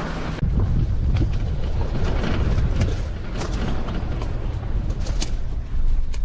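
A vehicle driving over a rough dirt track: a steady low rumble that gets louder about half a second in, with many short knocks and rattles as it goes over bumps.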